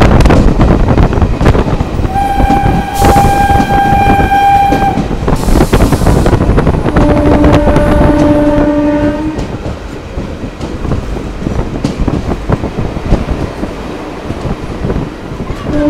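Passenger train running, with a loud rumble and rattle of wheels on rails heard from inside a coach. A train horn sounds twice: a higher blast of about three seconds, then a lower one of about two seconds. The running noise eases about ten seconds in as the train slows for a station.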